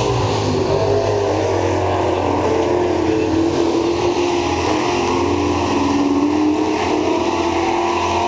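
Several racing super truck engines running at speed around a dirt oval, their overlapping engine notes rising and falling as they go through the turns.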